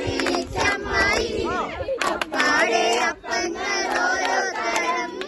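A group of people singing and shouting together, several voices overlapping without instruments.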